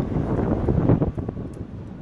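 Strong wind gusting against the microphone in a storm, a low, uneven noise that eases a little past halfway through.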